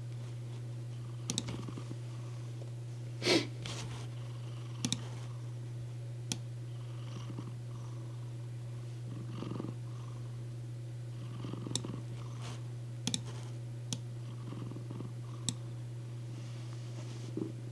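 Domestic cat purring steadily, with scattered small clicks and a brief louder noise about three seconds in.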